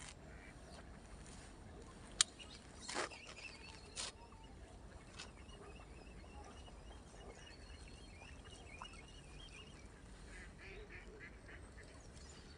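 Faint, wavering bird calls, of the kind a waterfowl tagger files as geese or ducks. A single sharp click comes about two seconds in, followed by two brief swishing sounds a second apart.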